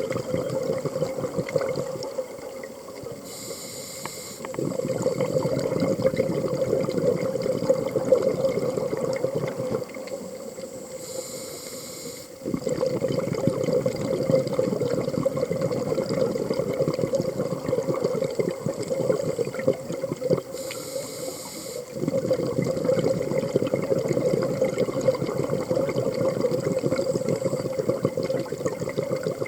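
A scuba diver breathing through a regulator underwater: three breaths, each a short, high hiss on the inhale followed by several seconds of loud rushing bubbles on the exhale.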